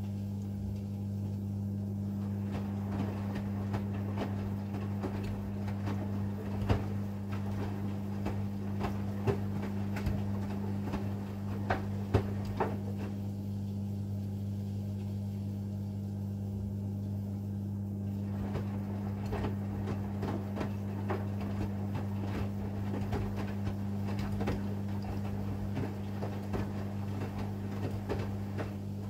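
AEG Lavamat front-loading washing machine tumbling a load in its wash phase: the drum turns for about ten seconds, pauses for about five, then turns again, with laundry and water knocking and sloshing inside. A steady low hum runs underneath.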